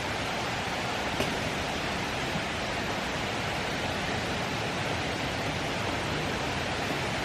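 Steady rushing of falling water, with one small click about a second in.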